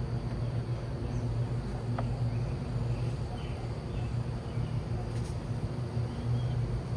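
Steady hum of a mass of honey bees buzzing close by, as a swarm is worked into a hive, with a single short tick about two seconds in.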